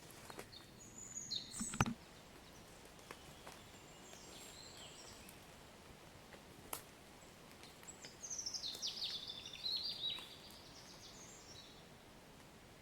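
Gentle rain ambience: a faint steady hiss with scattered single drips, and birds chirping over it, a short burst of calls about a second and a half in and a longer run of falling chirps from about eight to ten seconds.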